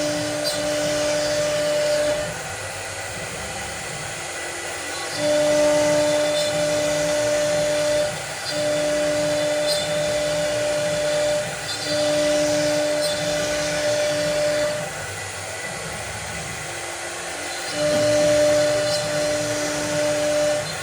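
CNC cutting machine's spindle whining as it cuts. The cutting comes in stretches of about three seconds, each louder with a steady pitched whine, with short quieter gaps between them and a longer quiet spell in the middle.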